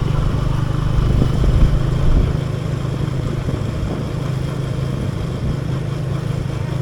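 Motorcycle engine running steadily while riding, heard from on the bike. The low rumble is strongest in the first two seconds, then eases off a little.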